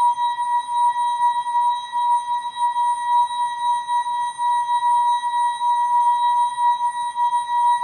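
The ASKfm app notification sound, time-stretched enormously so that it becomes a steady held high tone with overtones. Its pitch does not move, while its loudness wavers quickly up and down.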